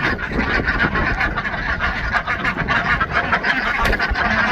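A flock of domestic ducks quacking together in a dense, steady chatter.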